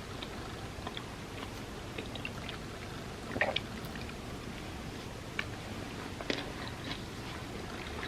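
Close-miked eating sounds: scattered small wet clicks and chewing of chocolate truffles softened in warm almond milk, with a short cluster of louder clicks about three and a half seconds in.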